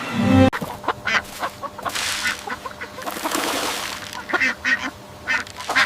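Birds calling: one loud, low-pitched call right at the start, then a run of short, sharp calls.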